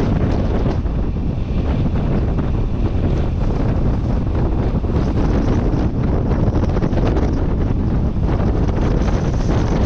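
Wind buffeting the microphone: a loud, steady, fluttering rumble, heaviest in the low end, with no distinct tones.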